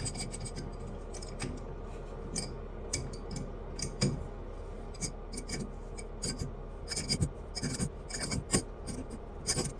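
Irregular clicks and scraping of plastic toilet flush-valve parts being screwed together by hand.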